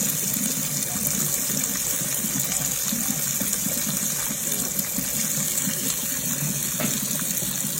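Water running steadily from a tap as a pet ringneck parrot is showered under it.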